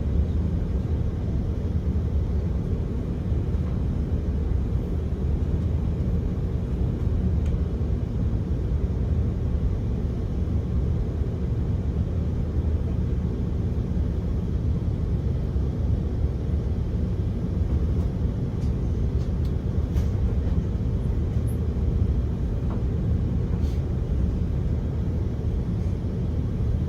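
Cabin noise inside an Airbus A330-300 taxiing after landing: a steady low rumble from its Rolls-Royce Trent 700 engines at taxi power and the rolling airframe. A couple of faint ticks come about two-thirds of the way in.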